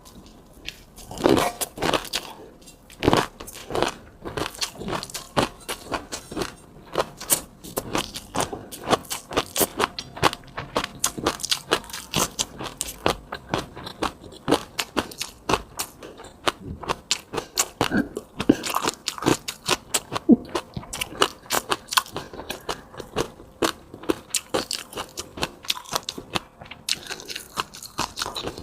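Close-miked eating: wet, clicky chewing and crunching bites, several a second without pause, with a few louder bites near the start.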